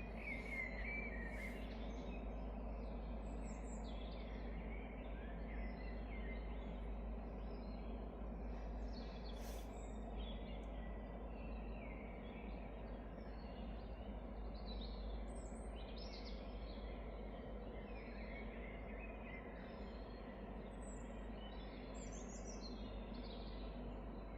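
Forest ambience: birds chirping and trilling now and then over a steady low rumble.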